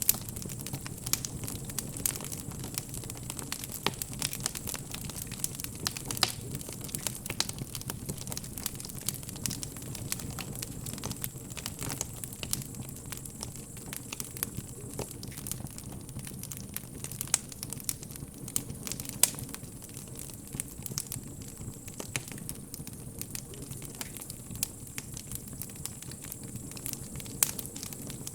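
Wood bonfire burning steadily with a low rumble, crackling and popping at irregular moments, a few pops much louder than the rest.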